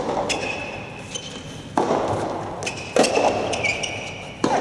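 A soft tennis rally: rackets striking the soft rubber ball four times, about one and a half seconds apart, each hit echoing in a large hall.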